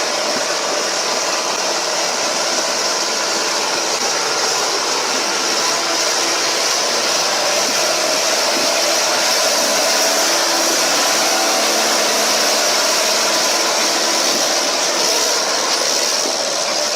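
Steady, loud rushing noise of a running vehicle, with a faint engine hum underneath.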